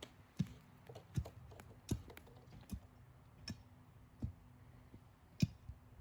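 Footsteps walking at an even pace, a soft thud with a click about every three-quarters of a second, over a faint steady hum.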